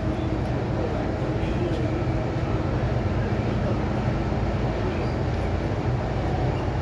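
MTR M-Train electric multiple unit running between stations: a steady rumble of wheels on rail, with a low, even hum of the traction motors.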